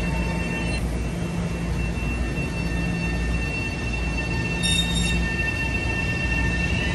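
Train running on the rails: a steady low rumble with two steady high-pitched tones over it, and a brief sharper squeal about five seconds in.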